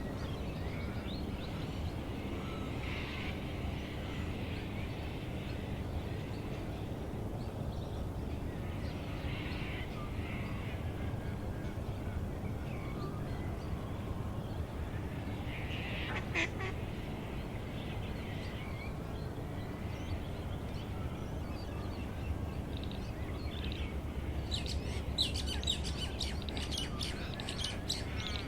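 Wild birds calling and singing in a morning wetland soundscape, with scattered calls and a busier burst of high chirping near the end, over a steady low rumble.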